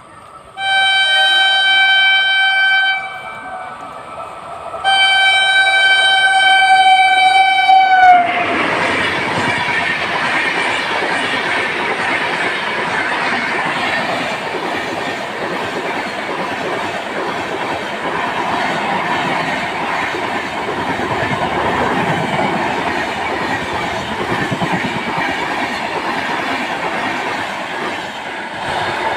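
Suheldev Express locomotive horn sounding two long blasts, the second sagging in pitch as it stops. Then the train rolls past with a steady clatter of wheels on the rails.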